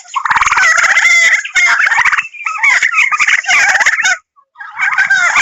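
Turkey gobbling: several bursts of fast, pulsing calls with short breaks between them, and a brief pause about four seconds in.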